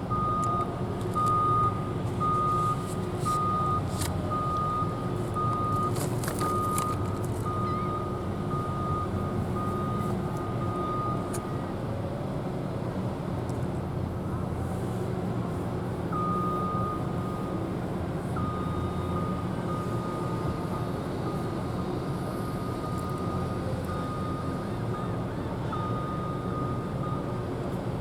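A vehicle's reversing alarm beeping steadily, a little more than once a second, for about the first twelve seconds; then a tone at the same pitch runs on almost unbroken. A steady low engine rumble runs underneath, with a few sharp clicks a few seconds in.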